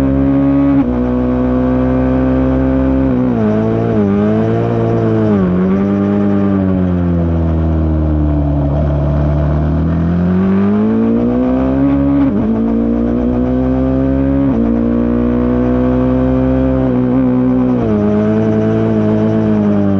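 Single-cylinder racing motorcycle engine at race pace, its revs climbing and dropping sharply with gear changes. The revs fall low near the middle and then climb again.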